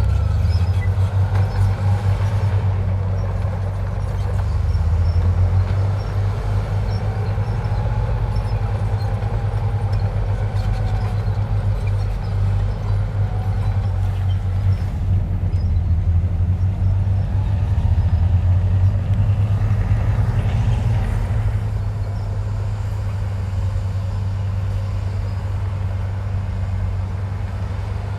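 Heavy earthmoving machinery's diesel engine running steadily with a deep rumble, a faint wavering whine above it.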